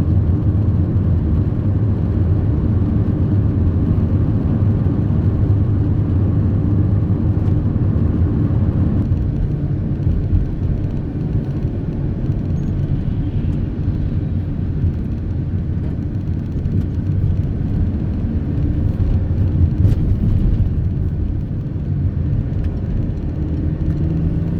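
Car driving along, a steady engine and road rumble heard from inside the cabin; the higher part of the noise drops away about nine seconds in.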